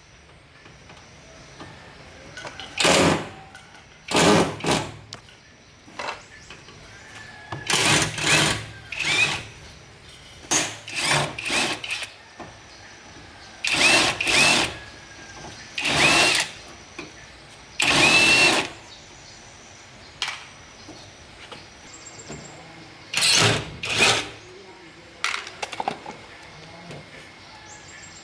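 Handheld power drill-driver run in many short bursts, each a second or less, its motor pitch bending as it speeds up and slows.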